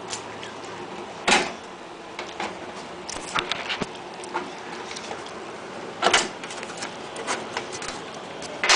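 Scattered clicks and knocks of hand tools and metal hardware as a truck's license plate is unscrewed and taken off. A few sharper knocks stand out, about a second in, around six seconds in and at the very end, with lighter clicks between.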